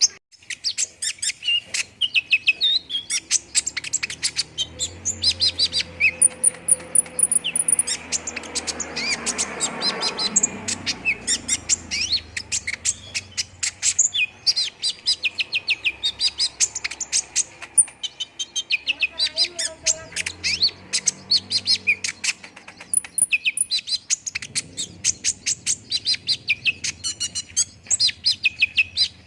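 Konin (kolibri ninja sunbird) singing: rapid runs of short, high, sharp chirps and twitters that go on almost without a break. A brief rushing noise rises under the song about a third of the way in.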